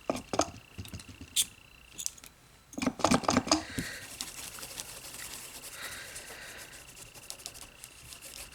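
Small sharp clicks and clatters of nail-art tools and bottles being handled on a tabletop, with a busy cluster about three seconds in, followed by several seconds of soft continuous rubbing.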